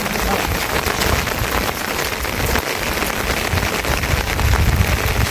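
Heavy rain falling steadily, a dense hiss with many individual drops pattering on surfaces, and an uneven low rumble underneath.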